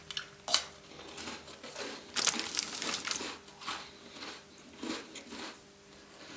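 Close-up chewing of a mouthful of chocolate-coated Tim Tam biscuits: irregular crunching and crackling, busiest about two to three seconds in.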